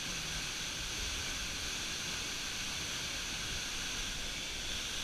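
Waterfall's steady rushing water noise, even and unbroken.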